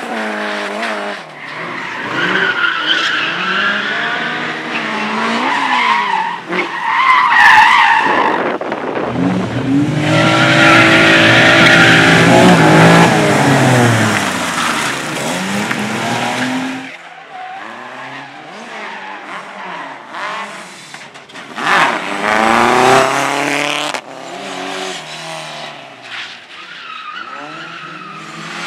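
Slalom race car engines revving up and down as the cars are driven hard through the cones, with tyres squealing in the turns. The sound is loudest for several seconds in the middle, as a car runs close by, then falls away.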